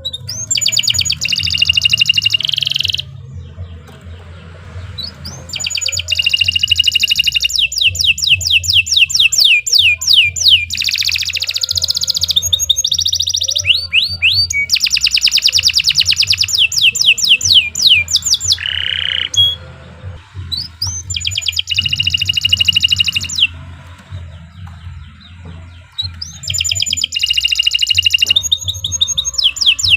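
Domestic canary singing long, fast rolling trills in phrases of a few seconds each, broken by short pauses, over a steady low hum.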